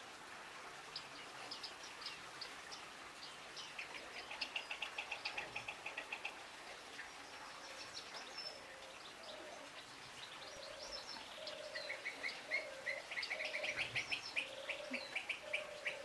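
Small birds singing, with rapid trilled runs of high notes: one about four seconds in and a louder one in the last few seconds.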